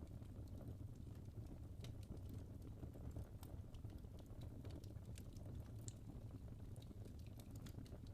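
Wood logs burning in a fireplace, crackling and popping in soft, irregular clicks over a low steady rumble.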